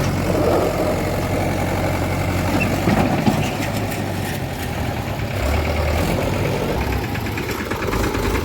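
Large diesel engine running steadily at low revs, its note shifting about halfway through.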